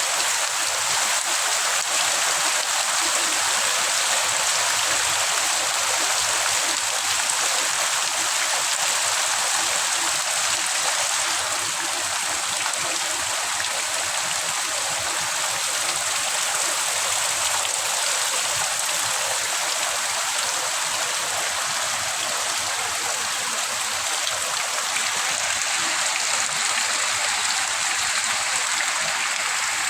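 Heavy rain pouring down in an even, steady hiss.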